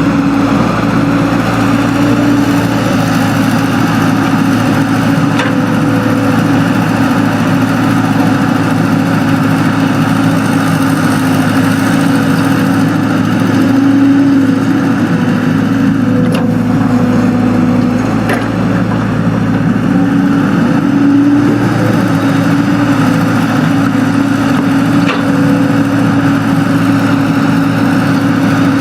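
Excavator's diesel engine running steadily, its pitch rising and falling slightly as the machine works, with a few faint clanks.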